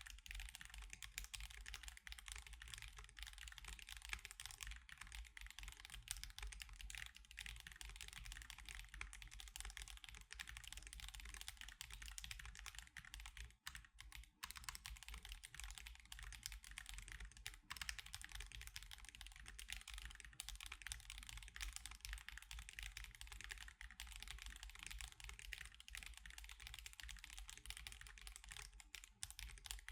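Continuous fast typing on an Akko Alice Pro mechanical keyboard fitted with Akko CS Crystal switches and osumekeys Sakura and Mochi keycaps. The keystrokes come in a dense stream, with a couple of short pauses near the middle.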